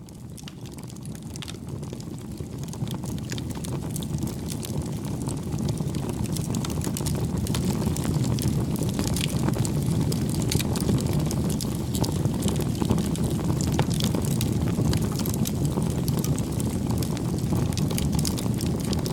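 Bonfire burning: a steady low rumble of flame with a dense run of sharp wood crackles and pops. It fades in over the first several seconds, then holds steady.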